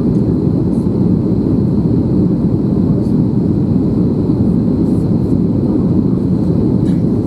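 Airbus A321 cabin noise in flight: a steady low rush of engines and airflow, with a faint steady high whine.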